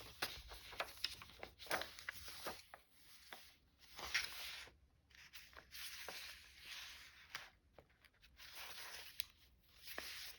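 Paper being handled: rustling sheets and pages, with light clicks and taps as paper is moved and set down.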